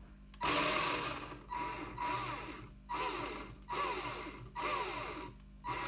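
1/10 RC drift chassis' electric motor and geared drivetrain spinning up in repeated bursts as the throttle is blipped, the whine rising and falling in pitch with each burst.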